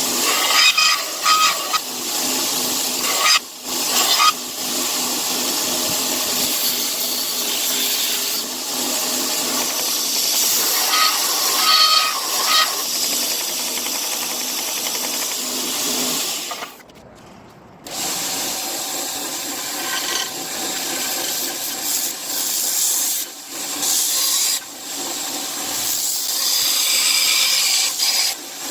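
Power tool grinding against material in steady passes, a continuous rasping hiss that drops out for about a second near the middle and dips briefly a few other times.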